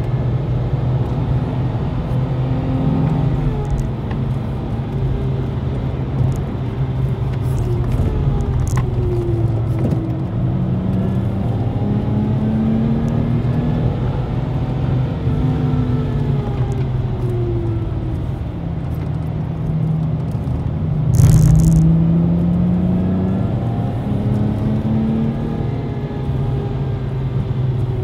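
Lexus IS200 TTE Kompressor's supercharged straight-six heard from inside the cabin at track speed, its revs rising and falling repeatedly through gear changes and braking. A single sharp knock about three-quarters of the way through.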